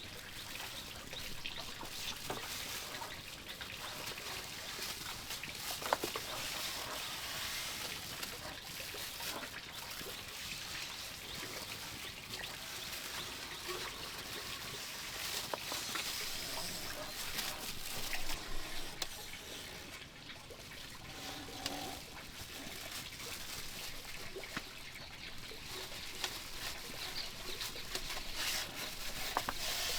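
Steady trickling water, with scattered small clicks and knocks.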